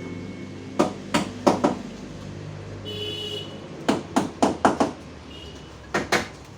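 Hammer knocking on a car body panel to beat out a dent, about a dozen sharp strikes in three quick bursts.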